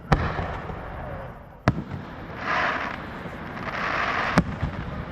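Aerial fireworks bursting: three sharp bangs, one near the start, one after about a second and a half, and one near the end, with stretches of rushing, crackling noise between them.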